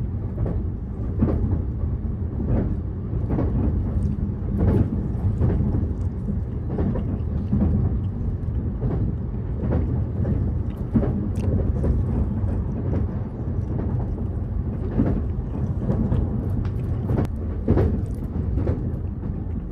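Steady low rumble of the Azusa limited express train running, heard from inside the passenger car, with irregular sharp crunches close by from chewing a crisp fried croquette.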